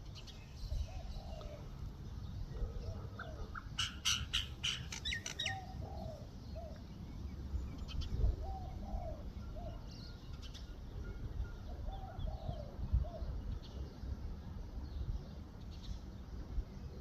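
Common myna calling: a quick run of harsh, clicking chatter about four seconds in, among short low notes repeated every second or two.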